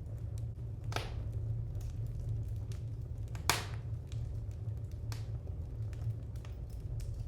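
Wood fire crackling in a fireplace: a steady low rumble with scattered pops, the loudest about three and a half seconds in, with others about a second in and near five seconds.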